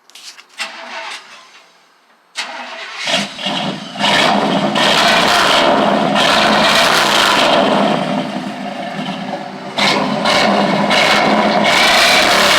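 A 1995 Chevy Silverado's 350 TBI V8 with true dual Flowmaster 40 Series mufflers starts up about two and a half seconds in, after a few light clicks. It then runs loud, revved, eases off for a couple of seconds, and loudens again near the end.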